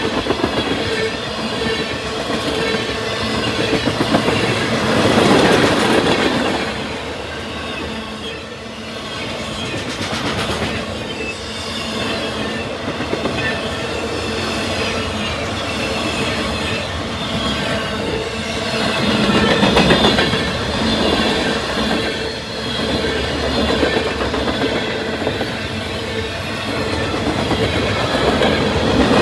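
Freight cars of a CSX train rolling past at track level, wheels clacking over rail joints with some squeal. The rumble swells about five seconds in and again near twenty seconds.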